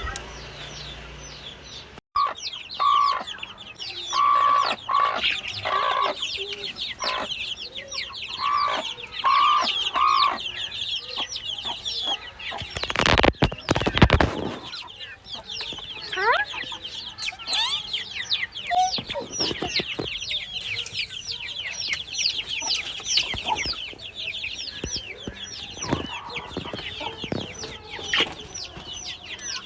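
Chickens clucking and peeping continuously, many short high chirps overlapping. About halfway through there is a loud knock or rumble.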